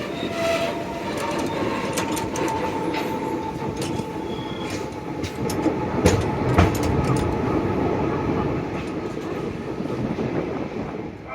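Passenger train running on the track: a steady rumble with wheels clicking over rail joints, and a pair of louder knocks about six seconds in.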